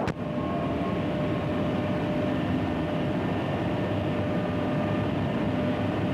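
Steady hiss and rumble of an early sound-on-film recording, with a faint steady hum, opening with one sharp click.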